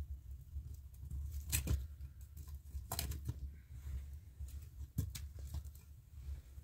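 Fire crackling in a mud-built stove, with a few sharp clicks and scrapes as metal tongs shift the glowing embers, over a low steady rumble.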